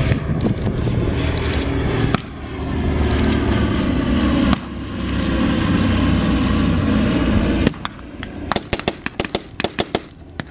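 Loud, steady drone of propeller aircraft piston engines passing. Near the end it gives way to a rapid, irregular series of sharp cracks and pops.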